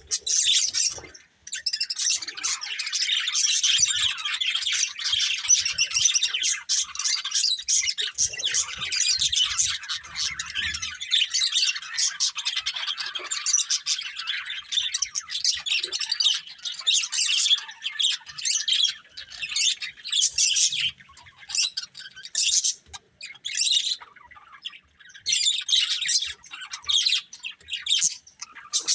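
Budgerigars chirping and chattering: a dense, rapid, high-pitched warble that runs almost unbroken at first and breaks into shorter bursts with brief pauses in the second half.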